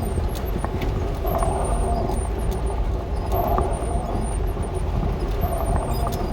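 Vehicle engine running at low speed while driving over a rough, muddy dirt road, with scattered rattles and knocks over a steady low rumble.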